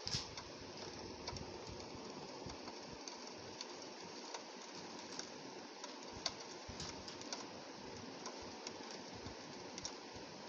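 Rain falling on window glass: a steady hiss of rainfall with irregular sharp ticks of single drops striking the pane, the loudest tick right at the start.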